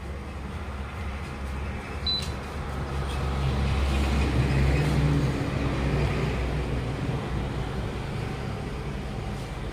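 A motor vehicle's engine running, growing louder toward the middle and then easing off again.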